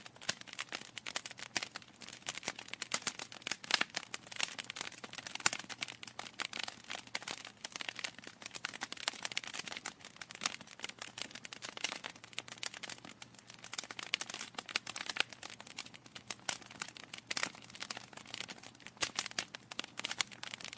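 Wood fire burning in a fireplace, logs crackling with a dense, irregular run of sharp pops and snaps over a soft steady hiss.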